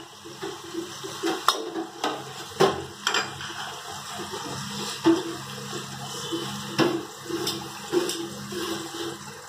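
Sliced onions sizzling in hot oil in a stainless-steel kadai, a steady frying hiss as they are lightly fried toward golden brown, with a few sharp metallic clicks and knocks.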